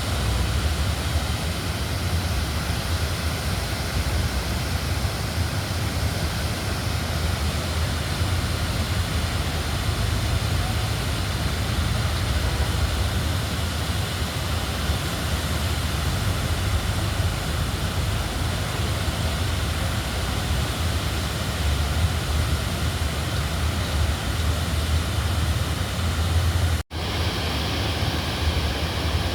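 Overflowing flash-flood river water running, a constant noisy rush with a strong low rumble. The sound drops out for an instant near the end.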